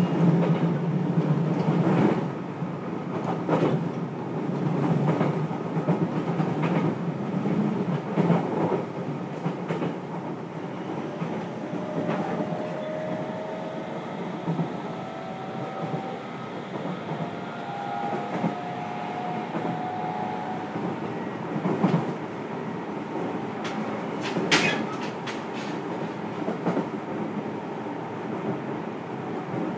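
Inside a motor car of a JR Kyushu 303 series electric train while it runs: a steady rumble of wheels on track with the clickety-clack of rail joints. Faint whining tones come through in the middle, the running gets a little quieter after about ten seconds, and there is a sharp clack about 24 seconds in.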